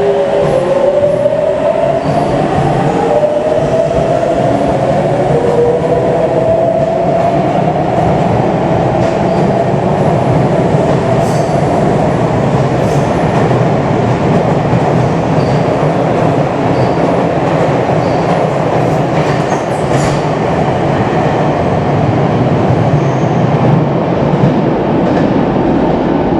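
Sotetsu 8000-series electric train pulling away: the traction motors' whine rises in pitch over the first several seconds. After that comes a steady rumble of wheels on rail, with scattered sharp clicks.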